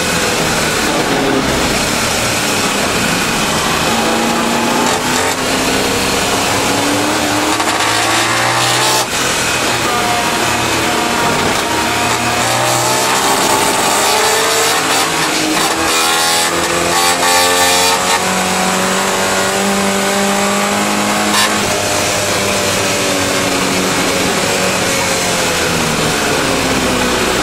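Triumph TR7 race car's V8 engine heard from inside the cockpit under hard racing load, the revs climbing in long sweeps and dropping back at gear changes and corners, over loud wind and road noise.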